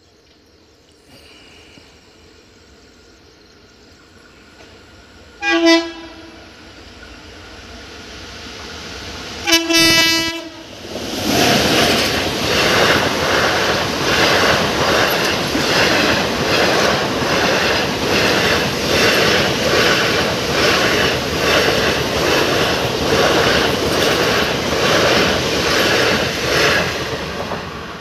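Indian Railways express train sounding its locomotive horn twice, a short blast then a longer one, and then rushing past at speed, its wheels clattering in a steady rhythm over the rail joints until the noise eases near the end.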